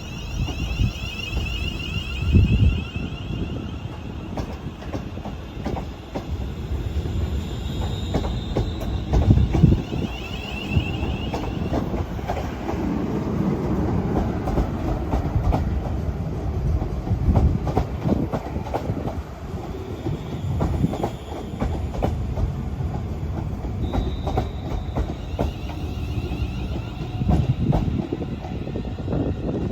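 A train running through a station, a heavy rumble with the wheels clacking over rail joints. A high whine sounds over the first dozen seconds and again near the end.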